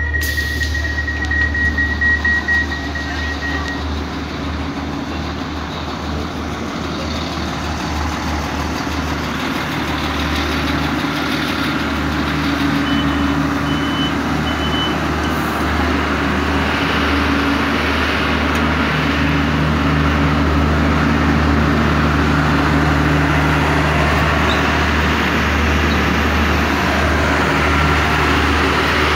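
Irish Rail 29000 class diesel multiple unit standing at a platform with its engines idling in a low steady drone. A pulsing door warning beep sounds for the first few seconds after the door-open button is pressed, and three short high beeps come about halfway through.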